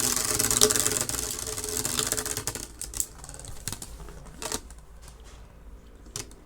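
Beyblade X spinning tops, Drain Sword among them, whirring and clashing in a plastic stadium: a dense, rapid clatter that fades over the first three seconds, then scattered clicks and knocks as the tops slow.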